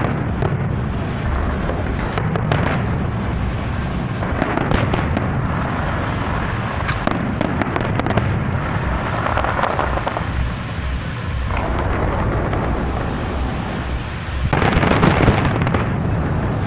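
Fireworks going off: a dense, continuous barrage of bangs and crackling, growing louder for a moment about fifteen seconds in.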